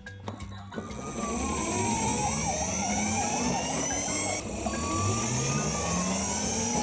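Electronic sound effects from a toy vehicle: an engine revving up in pitch, with falling and warbling siren-like wails over it.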